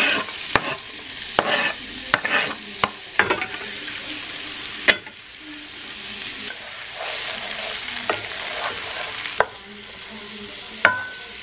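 Diced onion and crumbled sausage sizzling as they fry in hot olive oil in a pan, with repeated clicks and scrapes of a wooden spoon stirring them against the pan.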